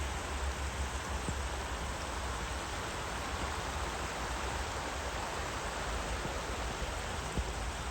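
Steady rushing of a swollen river, with a low rumble underneath.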